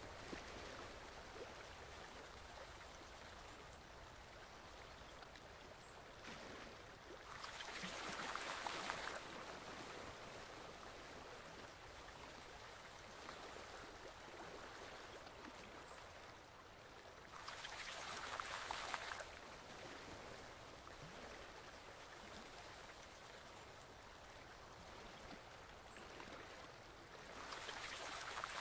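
Small forest stream flowing, a faint steady wash of water that swells louder three times, about every ten seconds.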